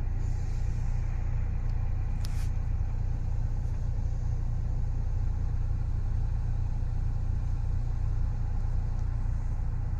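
Steady low rumble with a faint hiss, and one short click about two seconds in.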